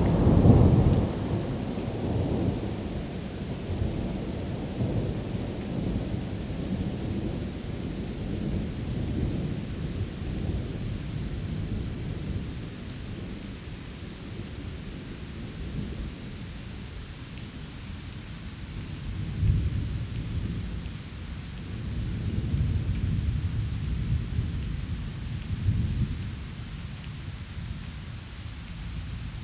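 Steady rain with rolling thunder: a loud low rumble of thunder at the start that fades over a few seconds, and more rumbles about twenty seconds in.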